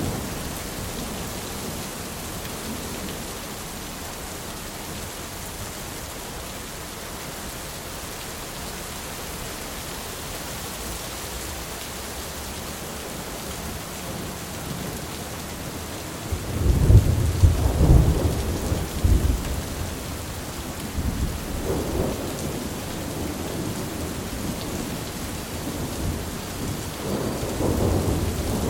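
Steady rain with rolling thunder: after a stretch of even rainfall, a sudden loud thunderclap breaks into a low rumble just past halfway, fading in a few seconds, with more rumbles after it and another building near the end.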